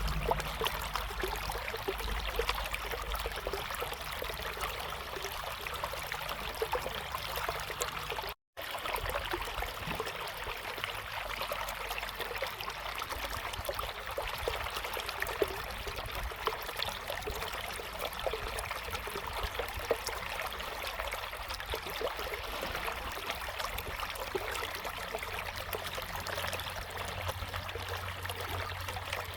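River water flowing in a steady, even rush. The sound cuts out completely for a split second about eight seconds in, then carries on unchanged.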